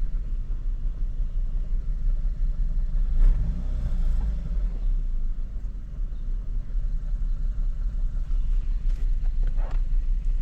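Kia Forte GT's turbocharged 1.6-litre direct-injection four-cylinder running at a steady idle, with a brief small rise in engine sound about three seconds in. The engine is burning off intake-valve cleaner after a soak.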